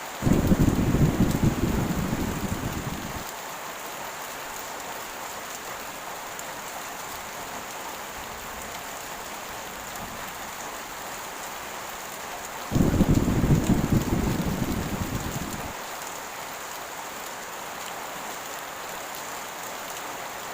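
Steady heavy rain with two deep rolls of thunder, one just after the start and another about 13 seconds in; each comes in suddenly, lasts about three seconds and fades back into the rain.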